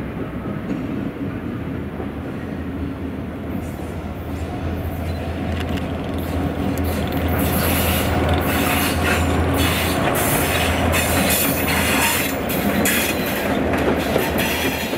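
A diesel switcher locomotive runs with a steady low hum as a train of tank cars rolls past. From about four seconds in, the wheels squeal and click on the rails, loudest in the second half as the locomotive goes by.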